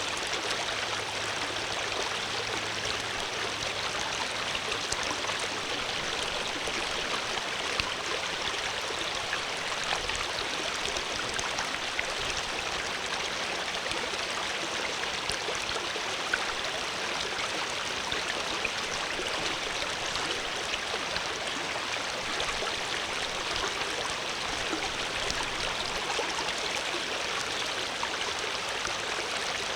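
Stream water flowing steadily over rocks, a continuous rushing with small splashes and gurgles in it.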